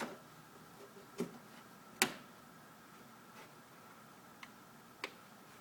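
Sharp, irregular clicks from a BMW 545i (E60), roughly one a second, the loudest about two seconds in: the weird clicking noise the car is making.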